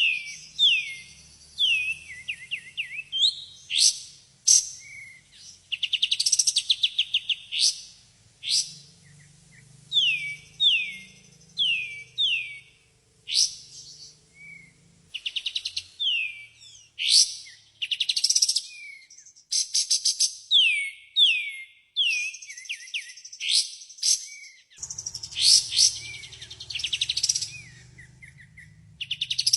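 Loud, continuous song of the songbird known in Indonesia as kapas tembak, played as a lure recording: runs of quick downward-sliding whistles alternating with fast rattling trills, repeated over and over.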